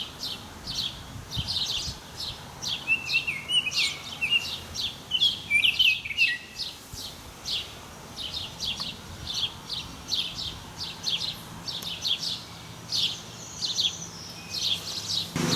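Birds chirping: short high chirps repeated a few times a second, with a run of lower, quickly stepping notes from about three to seven seconds in.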